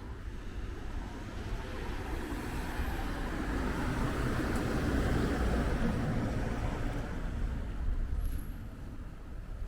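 A road vehicle passing by, its engine and tyre noise growing louder to a peak about halfway through and then fading away.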